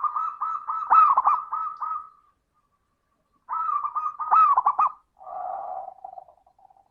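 Zebra dove (perkutut) cooing: two phrases of quick, rhythmic repeated coo notes, then a lower, softer call near the end.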